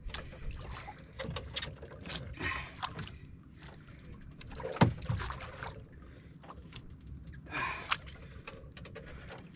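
Water sloshing against the hull of a small fishing boat, with scattered clicks and knocks and a louder knock about five seconds in, plus a couple of hard breaths from an angler fighting a fish.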